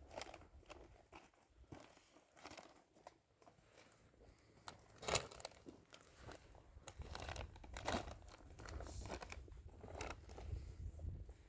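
Irregular crunching and clicking noises, loudest about five seconds in, over a faint low rumble.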